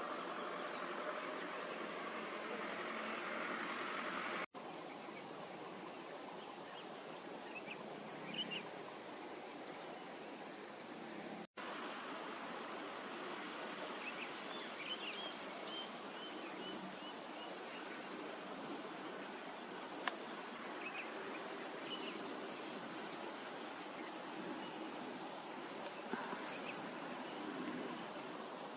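Steady insect chorus, a continuous high trill of crickets or similar insects, with the sound cutting out for an instant twice.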